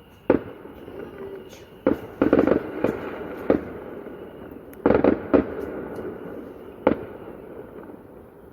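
Fireworks going off: about six sharp bangs, two of them quick crackling clusters, with a rolling echo between them that dies away near the end.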